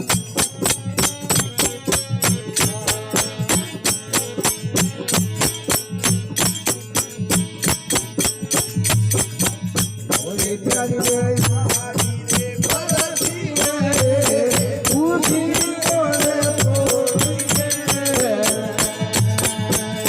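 Marwari desi bhajan music: a steady, quick rhythm of jingling hand percussion over sustained drone tones, with a wavering melody line coming in about halfway.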